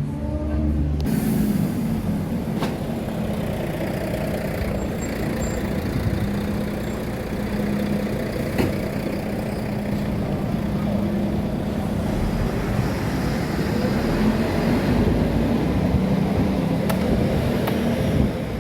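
Street traffic, with a heavy vehicle's engine running steadily close by as a low rumble and hum. A few sharp clicks stand out over it.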